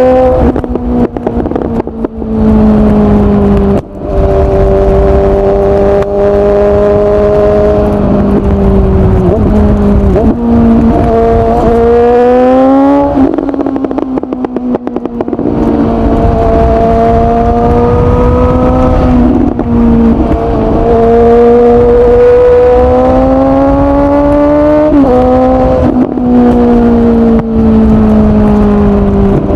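Suzuki GSX-S750 inline-four motorcycle engine through a Yoshimura SQ11 exhaust with no dB killer and no catalytic converter, pulling under way. The pitch climbs with the revs, then drops back at each of several gear changes, with a quieter off-throttle stretch about halfway through.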